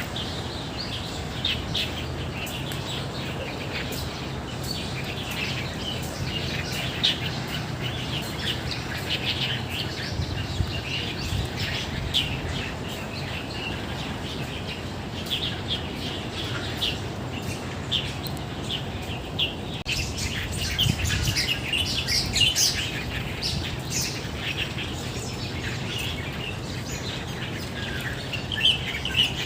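Many songbirds chirping and calling at once, short high chirps throughout that grow busiest about twenty seconds in. Beneath them is a steady low hum.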